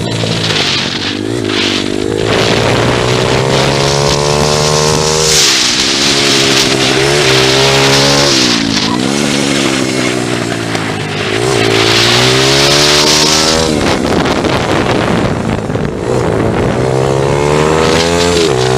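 Pit bike engine revving up and dropping back again and again as it is ridden hard around a kart-style track, the pitch climbing on each straight and falling off into the corners, with wind rushing over the microphone.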